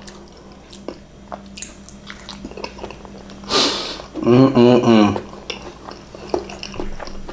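Close-up chewing of a mouthful of takoyaki, with soft wet smacks and small clicks of the mouth. About three and a half seconds in there is a sharp breath, then a short hummed "mmm" of enjoyment.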